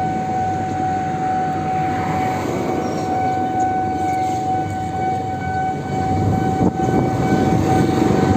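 Electric motorbike running at a steady speed: a constant high motor whine over rushing road and wind noise.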